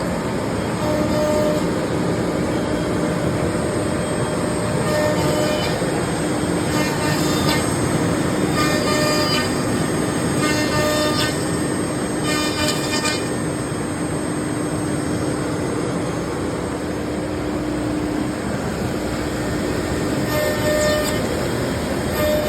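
CNC router running: a steady spindle whine over a constant machine noise, with stretches of higher-pitched cutting noise in the middle.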